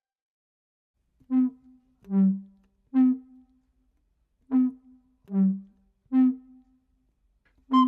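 Background music: after about a second of silence, low wind-instrument-like notes play a three-note phrase, short, longer and lower, short, which repeats once.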